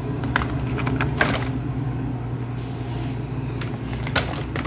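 A steady low machine hum, with a few sharp clicks and rustles scattered through it.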